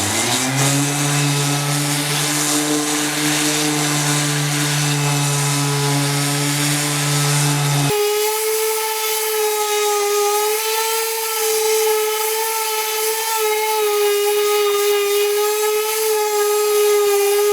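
Disc sander with a 40-grit disc spinning up and running steadily on hard fiberglass body filler. About halfway through, its tone changes suddenly, the low hum dropping out and leaving a higher, steady whine.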